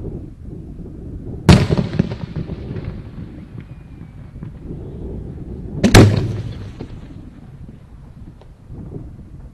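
Aerial firework shells bursting: two loud bangs about four and a half seconds apart, each trailing off in a rumbling echo.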